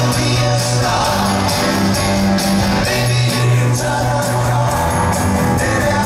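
Live rock band playing an upbeat rock and roll song, a sung lead vocal over a steady bass line and drums, with some crowd shouting mixed in.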